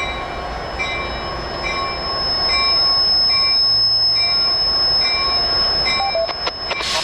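Train rolling by with a steady high-pitched wheel squeal and a bell ringing a little more than once a second. A few sharp clicks near the end lead into a loud burst of noise.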